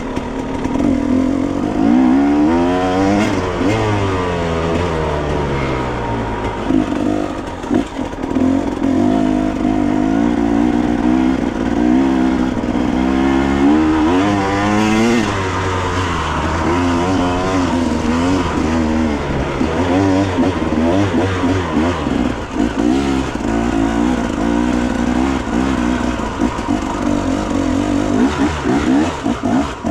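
Enduro motorcycle engine being ridden hard, its pitch repeatedly rising and falling as the throttle is opened and closed.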